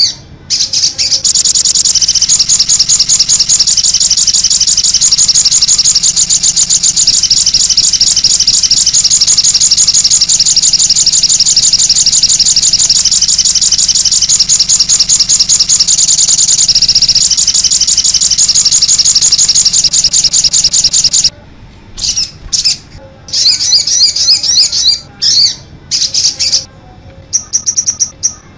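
Sogon (cit anten) bird singing. It holds a long, unbroken, rapid high trill for about twenty seconds, then stops and switches to short, separate chirping phrases.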